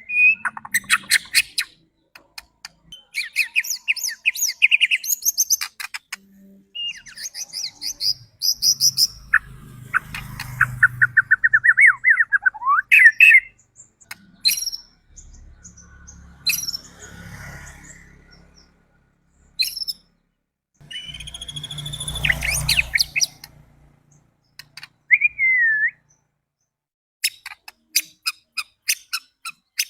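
White-rumped shama (murai batu) song played as a lure to rouse another shama to sing: a varied run of whistled, gliding notes, rapid strings of sharp repeated notes and chattering phrases, broken by short pauses.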